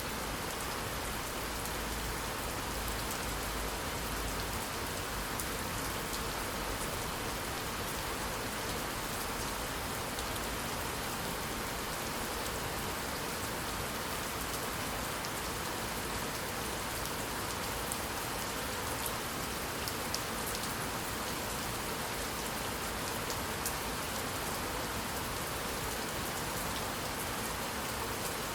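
Steady rain falling on a surface, an even hiss with the odd sharper drop ticking through it.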